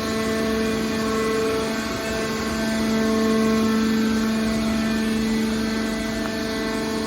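Car baler's power unit running steadily, a constant drone with one even hum and its overtones.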